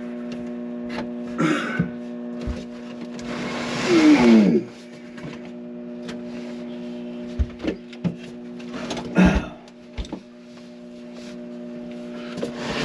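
Knocks and scrapes of a heavy RV house battery being shifted into its compartment over a steady electrical hum, with a loud scrape about four seconds in and another near nine seconds.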